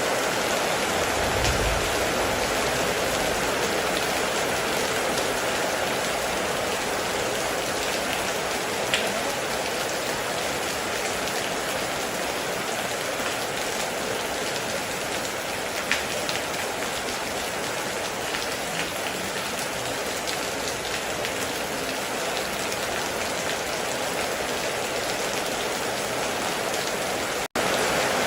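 Steady heavy rain pattering, with a couple of louder single drop ticks. The sound cuts out for an instant near the end.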